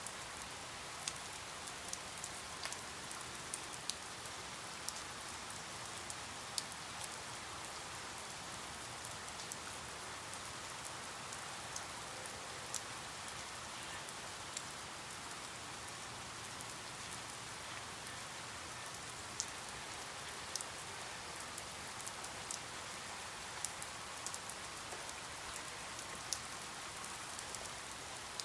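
Steady rain falling, an even hiss with scattered sharp drip ticks of individual drops landing on a surface.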